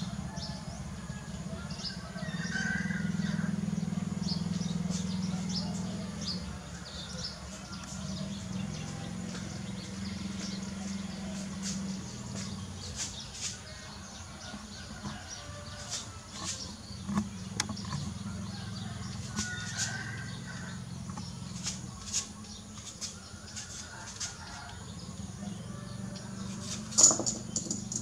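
Small birds chirping and calling in short high notes, scattered throughout, over a low background rumble that is strongest in the first few seconds. A single sharp click sounds near the end.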